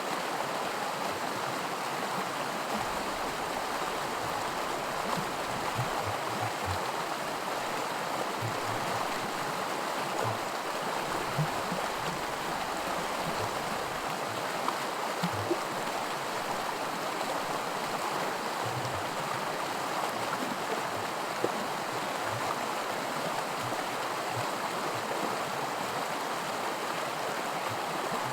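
A small creek running over rocks in a riffle of white water, a steady rushing babble with scattered little splashes and plops.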